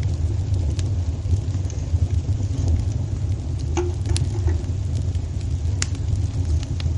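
Wood fire burning in a fireplace: a steady low rumble with scattered sharp crackles and pops, a few louder ones a little past the middle.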